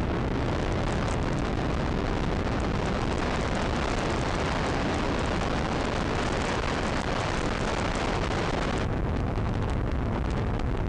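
Riding along on a motorcycle: steady wind rush on the microphone over engine and road noise. The high hiss eases about nine seconds in.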